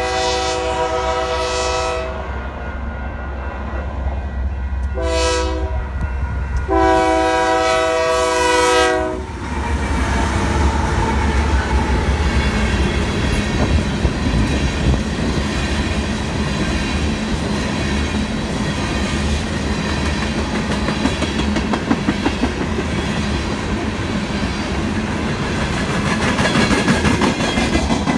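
Union Pacific freight locomotive's air horn sounding a chord in the grade-crossing pattern: the end of a long blast, a short blast about five seconds in, then a final long blast ending about nine seconds in. The train then passes close by with a deep rumble, and its tank cars roll past with a steady clickety-clack of wheels over the rail joints.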